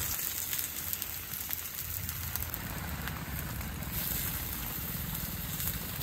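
Potato-stuffed paratha frying on a hot iron tava, the oil sizzling and crackling steadily, with rain hissing on the tent behind it.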